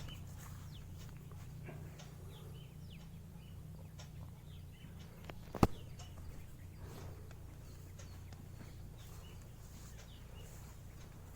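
Faint birds chirping now and then over a steady low hum, with a single sharp click about five and a half seconds in.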